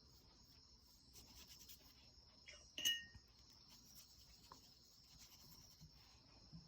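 Near silence with a faint steady high-pitched hiss, and one light clink with a brief ring about three seconds in.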